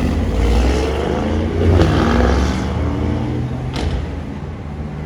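A car's engine accelerating past, its pitch climbing and loudest about two seconds in, then fading away.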